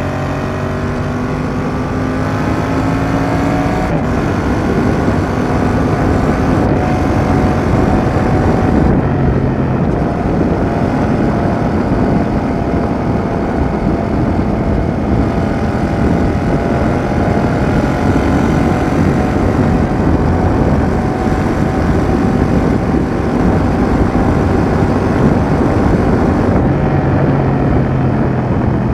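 Yamaha XSR700's parallel-twin engine through a Roadsitalia aftermarket exhaust, pulling under acceleration with its pitch rising for the first few seconds, then running at fairly steady revs and easing off slightly near the end. Heavy wind noise rushes over the microphone at riding speed.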